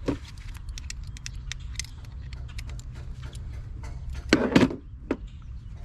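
Small metallic clicks and clinks from a loosened coil-pack hold-down bolt and hand tools being handled in an engine bay, with a louder rattle about four and a half seconds in, over a steady low hum.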